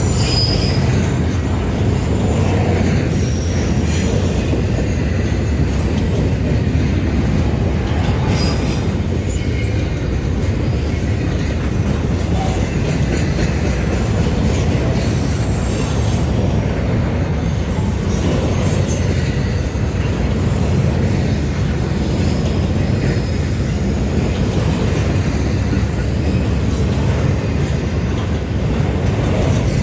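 Metra commuter train running on the rails: a loud, steady rumble of wheels on track, with a brief high wheel squeal about twelve seconds in.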